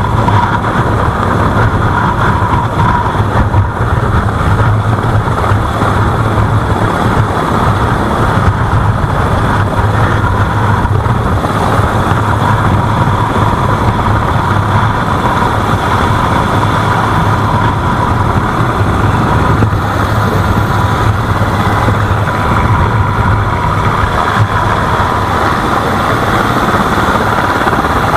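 A boat's engine running steadily at a constant speed, a loud, even drone with a low hum.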